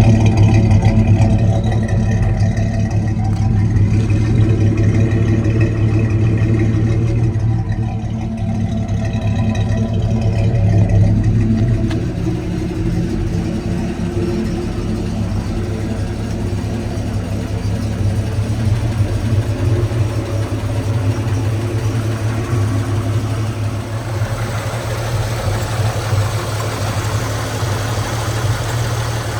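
Inline-six truck engine running with a new 2.5-inch-outlet exhaust manifold and no exhaust pipe built yet. It runs a little harder and unevenly for about the first twelve seconds, then settles into a steady idle.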